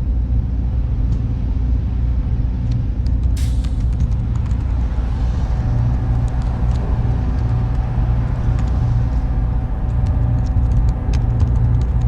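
Server room ambience: a steady low rumble and hum of machine fans and cooling, with a few faint tones running through it and scattered faint ticks.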